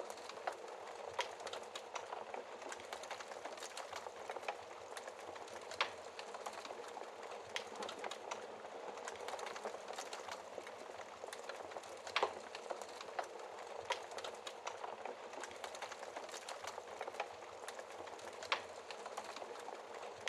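Wood fire crackling in a fireplace: a steady run of small crackles and hiss, with three louder sharp pops spaced a few seconds apart.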